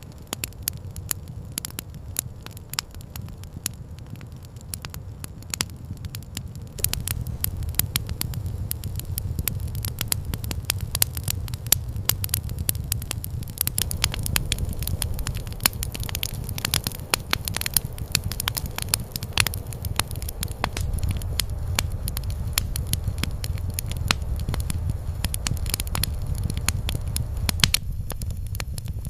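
Campfire crackling: dense, irregular pops and snaps over a steady low rumble. It grows louder and busier about seven seconds in.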